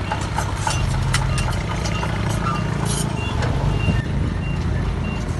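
Heavy diesel earthmoving machinery running, with a reversing alarm beeping about twice a second and scattered clanks and knocks of metal and rock.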